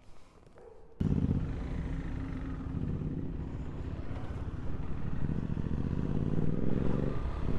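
Motorcycle engine running steadily, starting abruptly about a second in and growing gradually louder.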